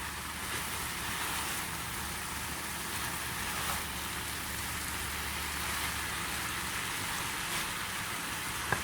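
Noodles and vegetables sizzling steadily as they are stir-fried in a hot pan, with a few faint clicks of the stirring utensil.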